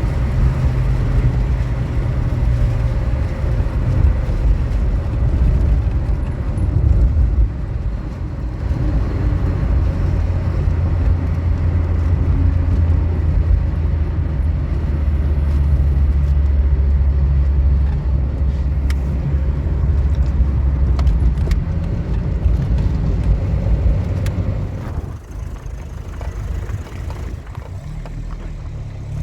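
A motor vehicle driving: a steady low engine and road rumble, which eases off about 25 seconds in.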